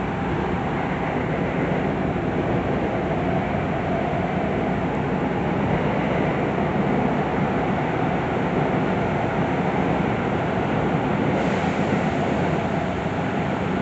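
Running noise inside a Tobu 9050 series electric train car: a steady rumble of wheels on rail and running gear with no sudden events. The high hiss brightens slightly about eleven seconds in.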